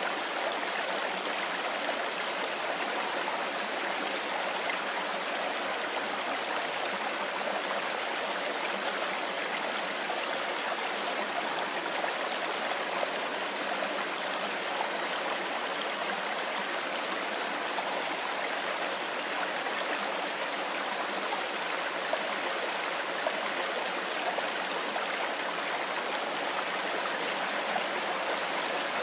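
Mountain river rushing over stones, a steady even rush of water.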